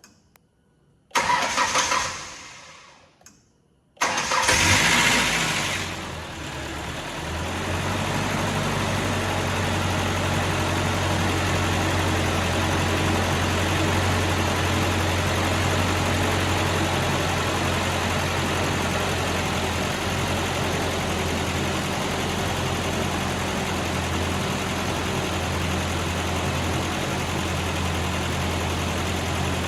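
Ford Ranger four-cylinder engine being started after a cylinder-head replacement. A first attempt about a second in fades out. A second attempt about four seconds in catches, runs up and settles into a steady idle. The owner finds the lifters noisy on this first run and hopes they will quiet down.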